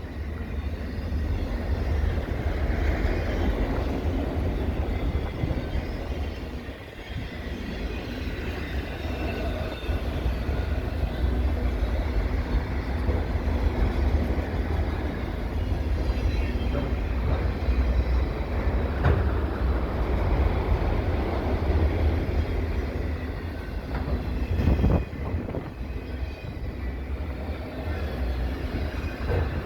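Freight train cars rolling past on the rails: a steady rumble, with wind buffeting the microphone.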